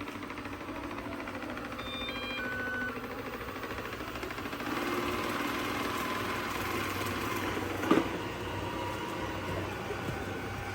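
Ecovacs Deebot robot vacuum running with fresh brushes, filter and battery: a steady hum from its motors and brushes, with a short stepped electronic chime about two seconds in and a single knock near eight seconds.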